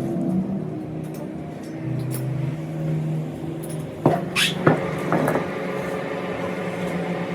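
A steady low hum, with a few sharp metallic clinks and knocks about four to five seconds in.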